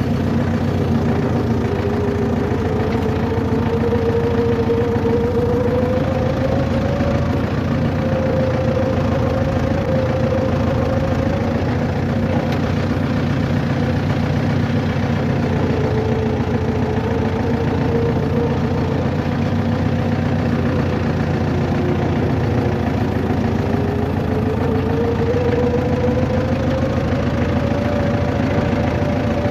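Motor vehicle running: a steady engine and road drone with a whine that slowly rises and falls in pitch as the speed changes.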